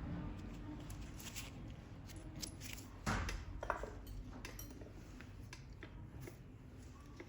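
Small metal pedicure tools clicking and clinking in scattered sharp ticks over a low room hum, as in toenail trimming, with the loudest click about three seconds in.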